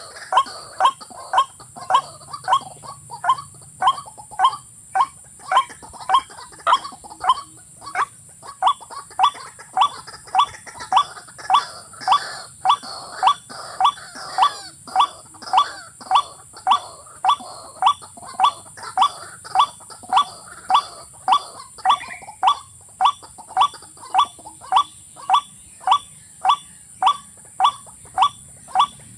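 A rail's call, the kind used to lure watercock or white-breasted waterhen to a trap: short calls repeated evenly about twice a second without a break.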